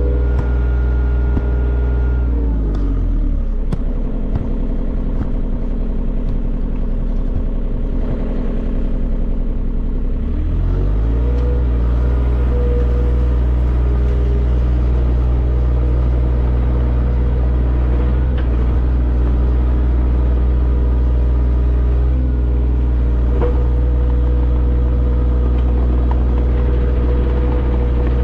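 An engine running steadily close by. It slows down about three seconds in, runs lower for several seconds, then speeds back up about eleven seconds in and holds steady.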